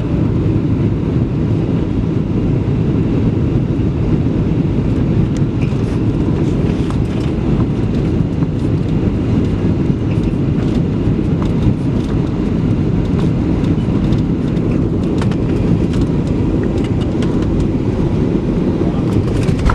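Steady low rumble inside the cabin of a Boeing 737-700 with CFM56-7B engines: engine and airframe noise, with small clicks and rattles from the cabin fittings.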